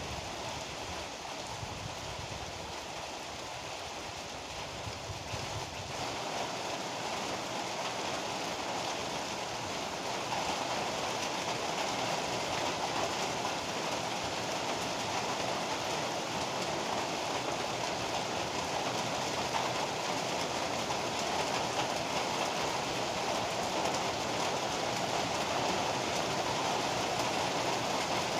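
Heavy rain pouring steadily, a dense even hiss; the downpour grows a little stronger about six seconds in, after a low rumble underneath at the start.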